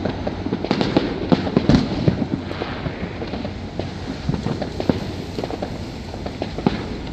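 Many fireworks going off at once: a near-continuous run of bangs and crackles over a low rumble, thickest in the first two seconds.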